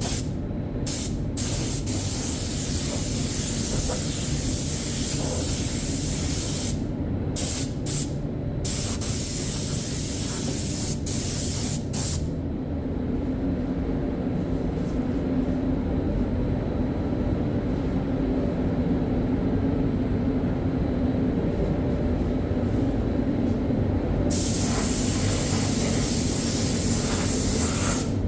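Spray gun hissing as primer is sprayed, in stop-start passes with the trigger released briefly several times. The hiss stops for about twelve seconds in the middle, leaving a steady low hum, then starts again near the end.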